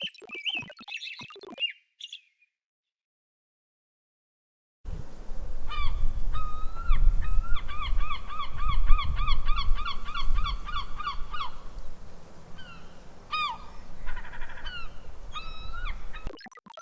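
After a few seconds of silence, birds give honking, goose-like calls: a rapid run of repeated calls, then a few single ones. Heavy wind rumble on the microphone runs underneath.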